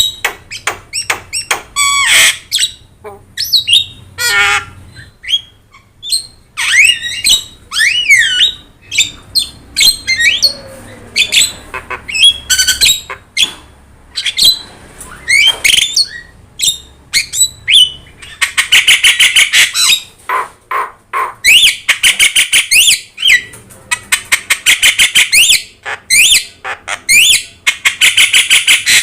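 Javan myna (jalak kebo) singing a busy, varied song of whistled glides and harsh squawks; from about two-thirds of the way in it switches to fast rattling chatter in repeated bursts of about two seconds each.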